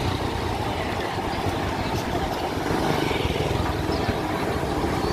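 Steady low engine rumble with a noisy haze above it and a few faint ticks.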